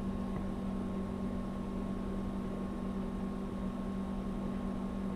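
Steady electric motor hum with a constant low tone and no grinding contact.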